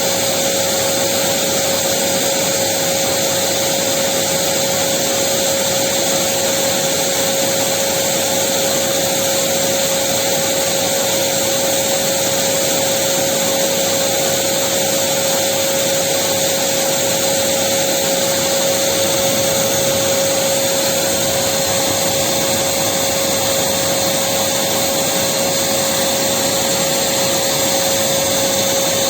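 Electric vacuum cleaner running steadily: an even rushing noise with one steady tone, unchanging throughout.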